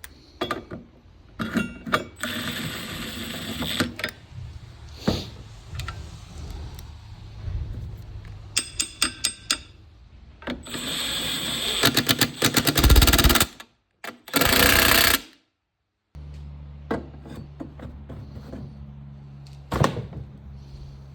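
Installation work on a garage door opener: several loud bursts of a power tool, clicks and clanks, and a quick rattling run of strokes. After a sudden cut, a steady low hum.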